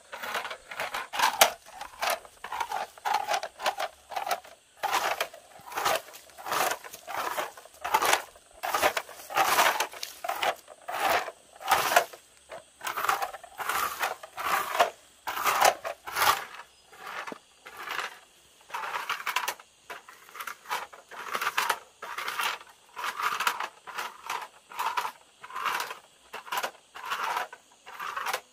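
Repeated short, sharp scraping strokes of hand work, about one or two a second and unevenly spaced.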